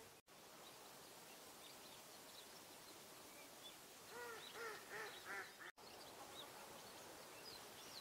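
Faint, thin high chirps of small songbirds in evergreen trees. About four seconds in, another bird gives a quick run of about five lower calls, the loudest sound. Near the end come soft high notes taken for a Japanese white-eye's courtship call.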